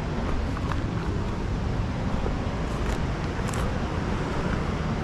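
Boat under way on a lake: the steady rumble of its outboard motor mixed with rushing water and wind.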